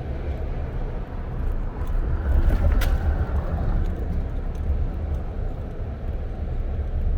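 A car driving, with a steady low rumble of engine and road noise and a single sharp click a little under three seconds in.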